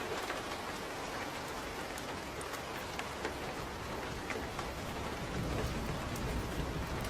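Steady rain falling, with scattered sharp drip ticks; a low rumble builds under it about five seconds in.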